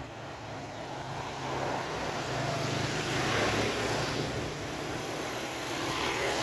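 Street traffic: a motor vehicle's engine hum and tyre noise, swelling as vehicles pass about three seconds in and again near the end.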